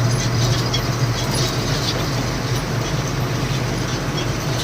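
Lorry engine running with road noise as the truck drives along, a steady low hum.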